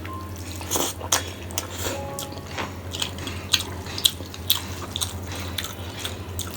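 Close-up eating sounds: chewing with many small, irregular mouth clicks and smacks while eating fish curry with rice and spinach. A steady low hum runs underneath.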